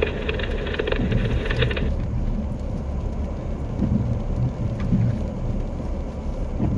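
Low, steady rumble of a car's engine and tyres heard from inside the moving cab. A brief raspy buzz sits over it for the first couple of seconds.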